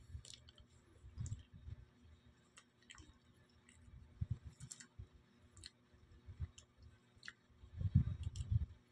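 A person chewing banana up close, with scattered wet mouth clicks and soft low chewing sounds, and a louder stretch near the end as another bite is taken.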